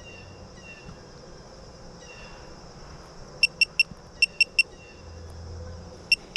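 Digital torque wrench beeping as its buttons are pressed to set the torque for a half-inch flare nut: two quick sets of three short high beeps, then a steady run of beeps near the end.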